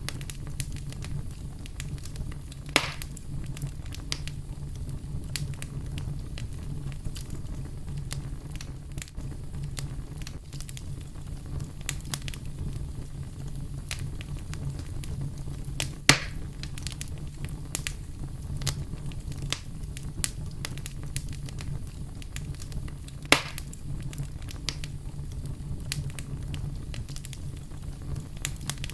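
Wood fire burning: a steady low rumble with frequent small crackles and three louder pops spread through.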